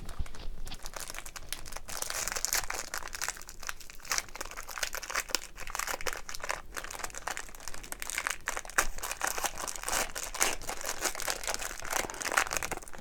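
The wrapper of a thick pack of hockey trading cards being torn open and handled, a dense crinkling made up of many small irregular crackles.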